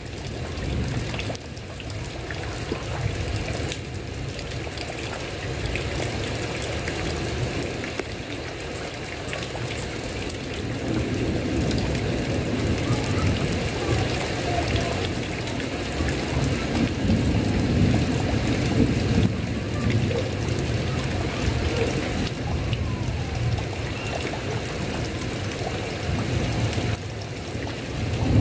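Heavy rain falling steadily on a tile roof, a dense even patter, with a low rumble swelling through the middle.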